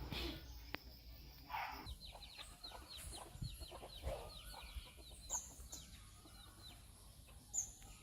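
Birds calling faintly outdoors: a quick run of short, falling chirps for a few seconds, with a few separate high notes later.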